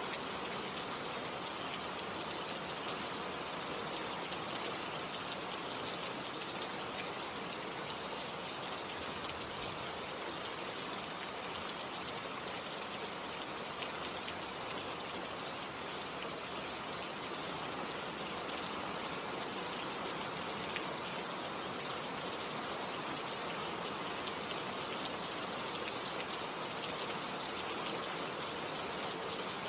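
Steady rain falling, a constant hiss of many fine drop patters with no change in strength.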